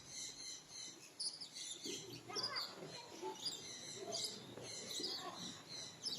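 Many small birds chirping at once, a continual mix of quick, high, overlapping calls.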